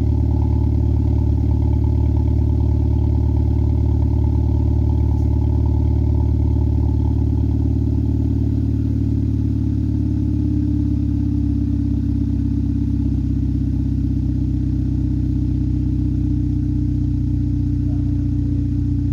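Skoda Fabia RS exhaust with the centre silencer removed, the engine idling steadily after a cold start. The note changes slightly about halfway through, losing some of its upper edge.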